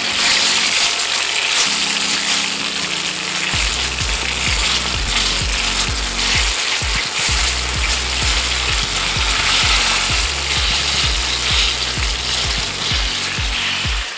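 Eggplant halves sizzling loudly in hot oil in a frying pan as they are turned over with tongs. Background music plays underneath, with a pulsing bass beat coming in about three and a half seconds in.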